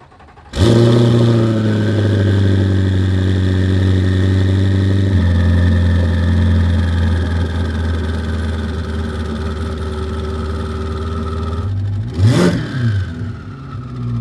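Twin-turbocharged V8 of a C8 Corvette coming to life abruptly about half a second in and running at a fast idle, which drops to a lower, steady idle around five seconds in. Near the end the throttle is blipped once, a quick rise and fall in engine speed, before it settles back to idle.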